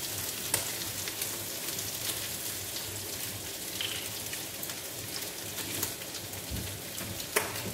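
Yellow egg noodles and egg frying in hot oil in a wok: a steady crackling sizzle, with a couple of light clicks.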